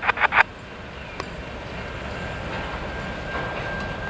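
Freight cars of a departing train rolling over the rails at a level crossing: a steady rolling noise, with a faint thin high squeal joining about halfway through.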